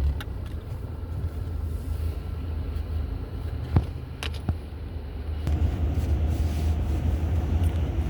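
Steady low rumble of a car idling, heard from inside the cabin, with two sharp clicks about four seconds in. About five and a half seconds in, a steady hiss joins the rumble and keeps going.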